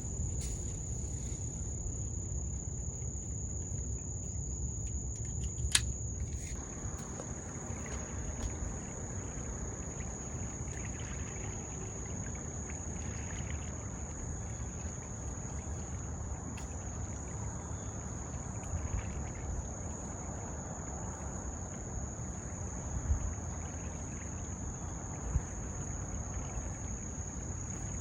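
Insects singing in one steady, unbroken high-pitched drone over a low rumble, with a sharp click about six seconds in.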